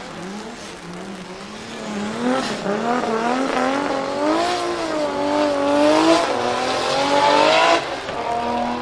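Single-turbo 2JZ straight-six in a Toyota GT86 revving hard while the car drifts sideways. The engine note wavers up and down with the throttle and climbs louder, then falls away sharply as the driver lifts, about a second before the end.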